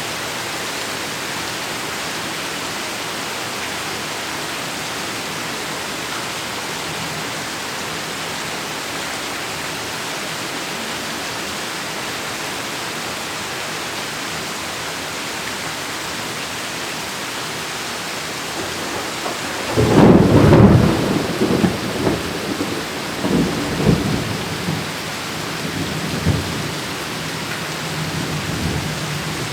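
Heavy rain falling steadily, then about two-thirds of the way through a loud clap of thunder breaks in and rolls on in several rumbles for about seven seconds before sinking back under the rain.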